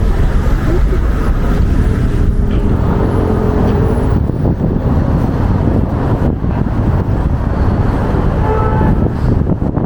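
Wind buffeting the microphone with a steady low rumble, mixed with city street traffic noise; a faint vehicle hum shows a little after the start.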